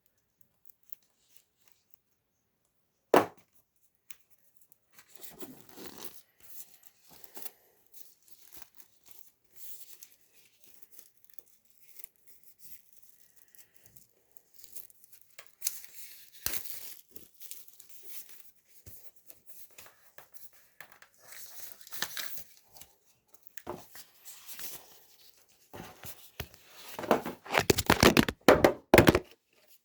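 Plastic shrink-wrap being torn and crinkled off a vinyl record sleeve. A single sharp knock about three seconds in, then on-and-off tearing and crinkling that gets busiest and loudest near the end.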